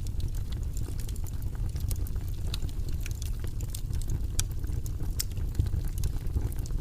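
Wood fire burning in a fireplace: a steady low rush with many irregular sharp crackles and pops, a few louder snaps about midway.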